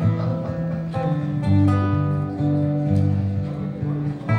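Acoustic guitar strumming chords, each chord left ringing, with a new stroke about every second.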